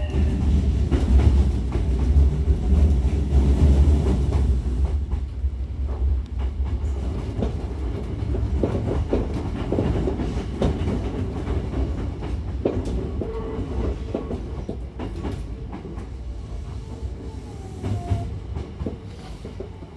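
Hankyu 9000-series electric train running, heard from inside the passenger car: a steady low rumble with wheels clacking over rail joints. It is loudest for the first few seconds, then eases off gradually.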